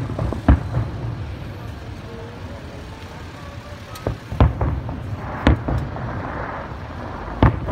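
Aerial fireworks shells bursting: about six sharp bangs, two at the start, two about four seconds in, one a second later and one near the end, each followed by a low rumbling echo.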